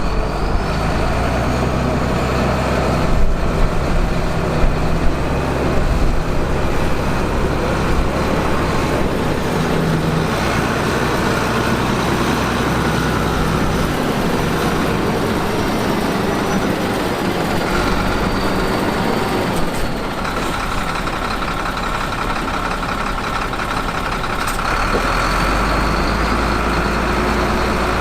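Heavy diesel construction machinery running: a steady, loud engine drone with a higher whine over it, and a few sharp knocks about three to five seconds in.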